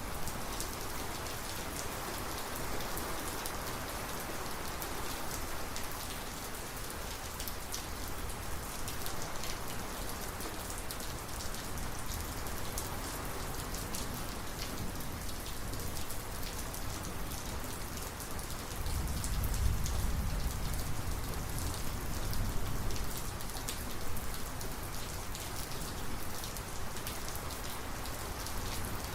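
Steady rain from a thunderstorm, with many individual drops ticking close by. About two-thirds of the way through, a low rumble of thunder swells briefly and then fades.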